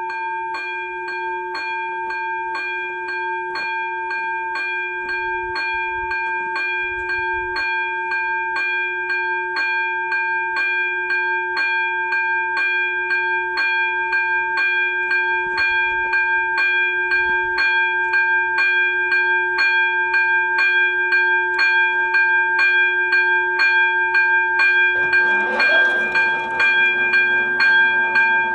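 Czech level-crossing warning bell, the electronic ZV02 bell on STARMON LED signals, ringing steadily at about two strikes a second from the moment the crossing switches on, the sign that a train is approaching. Near the end the noise of the approaching train joins in.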